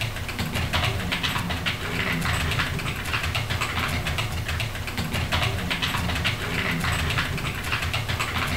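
Clatter of computer keyboards being typed on, a dense run of quick clicks over a steady low hum.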